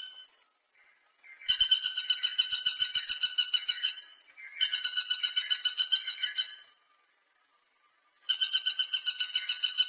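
Woodpecker call: rapid, evenly repeated high notes, about eight a second, in three bouts of two to three seconds each with short pauses between.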